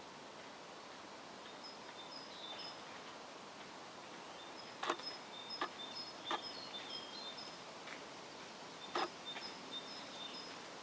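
A small bird chirping: short high notes repeated in quick runs over steady outdoor background noise, with four sharp taps in the second half.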